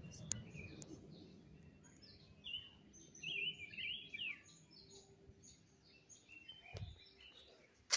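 Wild birds calling: a string of short, high chirps and slurred whistled notes, busiest around the middle, over a faint outdoor hush. A dull knock sounds near the end.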